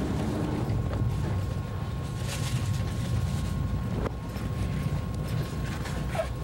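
Interior running noise of a first-generation ICE high-speed train rolling out of a station: a steady low rumble from the wheels and running gear, broken by a few sharp clicks.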